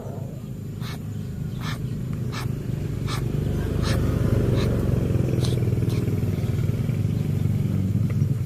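An engine running and growing gradually louder, with a string of sharp clicks about every three-quarters of a second through the first six seconds.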